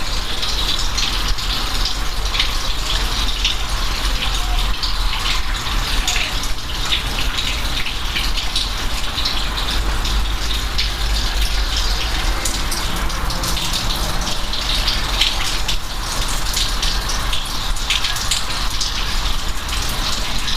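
Steady rain falling: a continuous hiss with many separate drop splashes through it.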